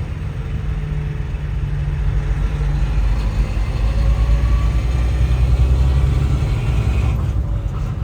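Truck engine heard from inside the cab, a steady low rumble that rises slowly in pitch and gets a little louder through the middle as the truck pulls ahead in slow traffic.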